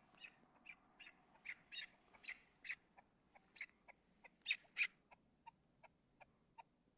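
A bird calling in a rapid series of short calls, about two to three a second. The calls are loudest about four and a half seconds in, then grow fainter and stop near the end.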